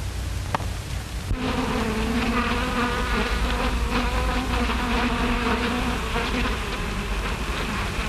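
Bees buzzing: a steady, slightly wavering drone that sets in about a second and a half in and fades out near the end, over the hiss of an old film soundtrack.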